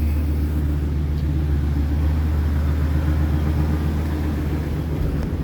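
Ford Excursion engine idling through an exhaust with a Flowmaster FX muffler and ZZP resonator, the electric cutout closed: a steady, quiet low rumble.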